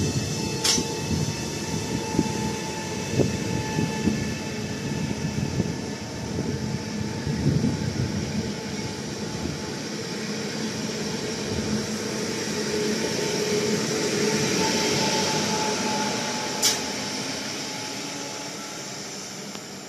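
Koleje Dolnośląskie Pesa electric multiple unit passing through a station: a rumble of wheels knocking over the rails with a steady electric whine. A hiss of wheels on rail swells in the middle and then fades as the train moves away.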